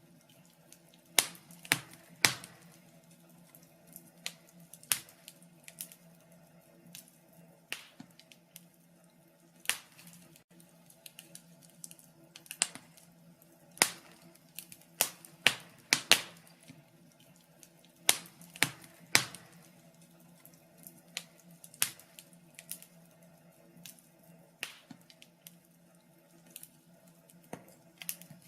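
Wood fire crackling in a fireplace. Irregular sharp pops and snaps come singly or in quick clusters over a faint steady low hum.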